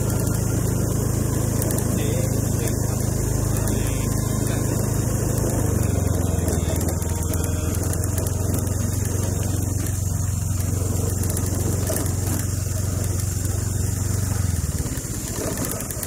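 Small motorbike engine running steadily while riding. Its note shifts slightly about six seconds in, then dies away shortly before the end.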